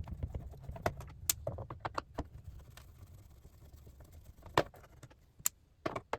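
Sharp clicks and metallic clinks from working loose the screws that hold a monitor's stand, with a low rumble that fades out about halfway.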